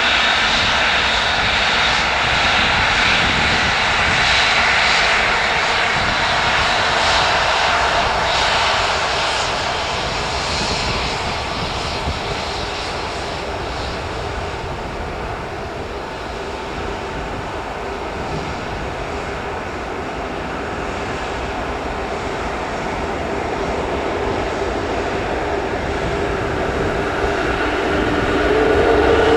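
Airbus A380 jet engines running with a loud rushing noise. It eases off through the middle and builds again near the end, where a steady whine comes in.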